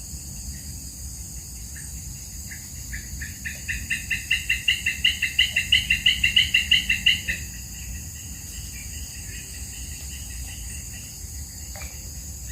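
A bird calling a rapid series of repeated notes, about five a second, that grow louder over several seconds and then stop. Behind it, a steady high insect chorus.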